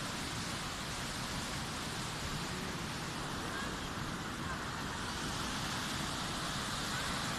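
Steady rushing of flash-flood water, an even noise without breaks, with faint voices in the background.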